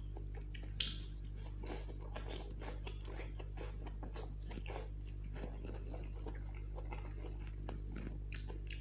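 A man biting and chewing a fried long green chilli, making wet smacks and clicks of the mouth several times a second, with one sharper click about a second in. A steady low hum runs underneath.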